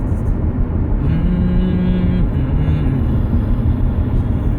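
Steady low rumble of a vehicle on the move, with a held pitched note about a second in, followed by a shorter, lower one.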